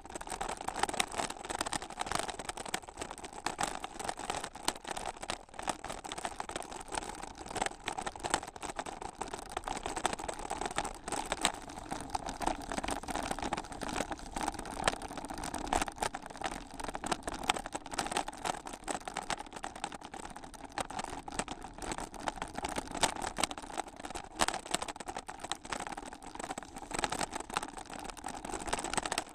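Bicycle riding over a rough dirt trail: steady tyre noise with constant dense rattling and clicking as the bike and its mounted camera jolt over the bumps.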